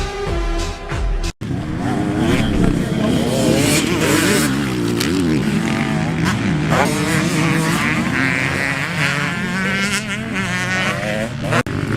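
Music for about the first second and a half, then a sudden cut to motocross dirt bike engines revving, their pitch rising and falling again and again.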